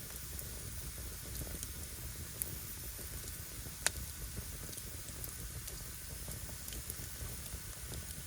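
Firewood burning: a steady hiss with fine crackling and small ticks, and sharp pops from the wood, one about two and a half seconds in and a louder one about four seconds in.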